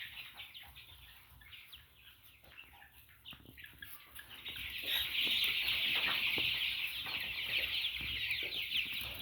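A brooder flock of 25-day-old Sasso chicks peeping and cheeping together, many overlapping calls that swell into a louder, denser chorus about halfway through.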